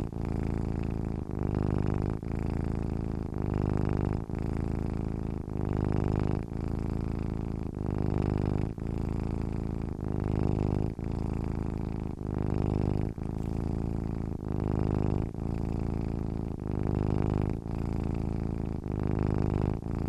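Domestic cat purring steadily while asleep, a low rumble that pulses in even phases about a second long.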